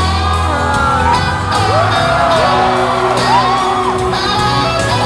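Recorded backing track starting its intro with a steady beat and guitar, with several swooping high whoops over it in the middle.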